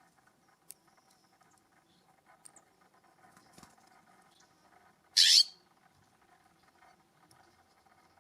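A bird gives one loud, short, harsh call about five seconds in, over a faint steady outdoor background with a few small ticks.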